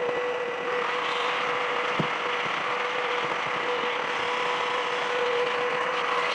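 Car wash equipment running: an electric motor holding a steady whine over a dense rushing hiss, with one sharp click about two seconds in.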